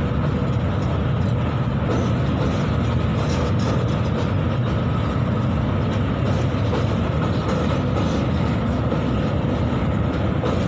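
Long freight train's covered wagons rolling past on the rails, a steady noise of wheels on track.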